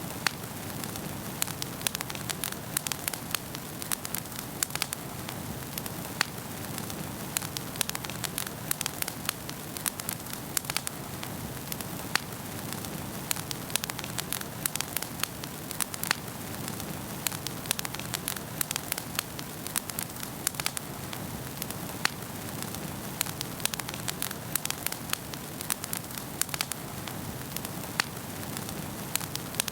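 Wood fire burning in a fireplace: a steady hiss and flutter of flames with frequent sharp, irregular crackles and pops from the burning logs.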